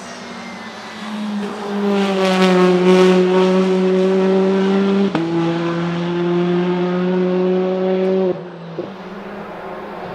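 Hyundai Elantra N's 2.0-litre turbocharged four-cylinder engine and exhaust pulling under load. The note swells to a loud, steady tone about a second and a half in and drops abruptly to a lower pitch about five seconds in, at a gear change. It then holds and falls back to a quieter drone about eight seconds in, as the throttle comes off.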